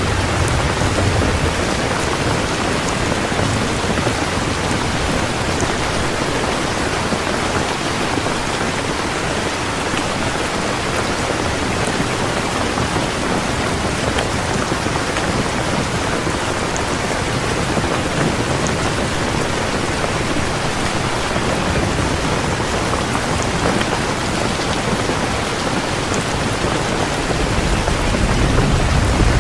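Heavy rain pouring steadily, with a low rumble of thunder about a second in and another swelling near the end.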